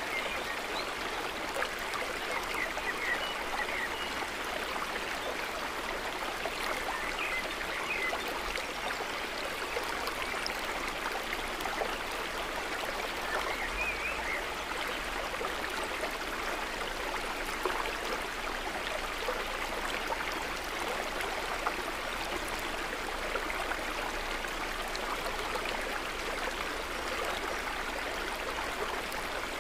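Steady, gentle trickling and babbling of water at a calm lake's edge.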